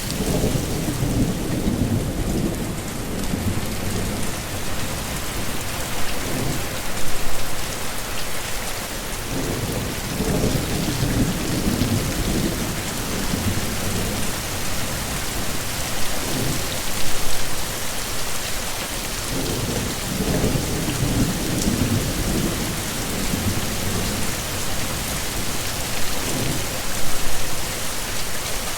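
Heavy rain falling steadily, with low rumbles of thunder swelling and fading several times. Brief louder peaks come about every ten seconds.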